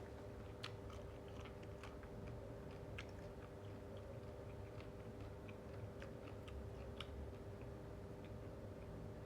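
A person chewing and eating, with scattered small wet clicks and smacks, over a steady low hum.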